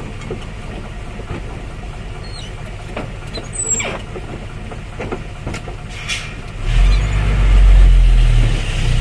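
Vehicle engine running with a steady low rumble and a few scattered clicks; about seven seconds in a heavier engine grows much louder and its tone rises slowly as it pulls up the steep climb.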